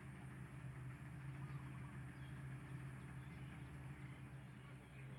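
Combine harvester's engine running steadily, heard as a faint, even hum.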